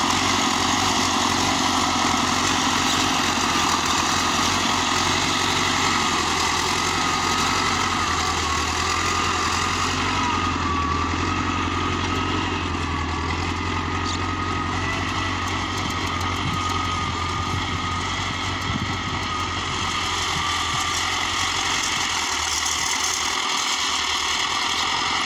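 DT-75 crawler tractor's diesel engine running steadily at idle, with a thin wavering whine over it for most of the time.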